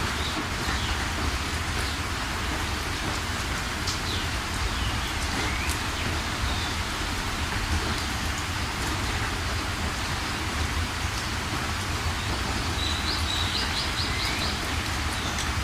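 Steady heavy rain falling, with a few high bird chirps and a quick trill of repeated notes near the end.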